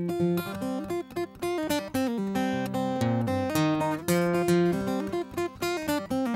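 Acoustic guitar strummed in a steady, quick rhythm with changing chords: the instrumental intro of a song before the vocals come in.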